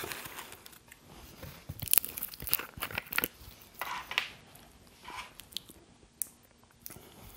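Close-miked eating sounds: chewing a burger, mixed with scattered clicks and crinkles from the paper wrapper and the plastic sauce bottle being handled as barbecue sauce is poured onto the burger.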